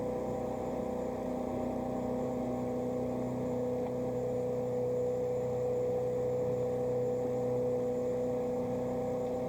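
Motorboat engine running at a steady, unchanging pitch, with the hiss of water and wind around the hull.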